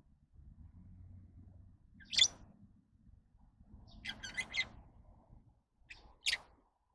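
Lovebirds giving short, sharp chirps: a single loud chirp about two seconds in, a quick cluster of chirps around four seconds, and another sharp chirp near the end, over a faint low rumble.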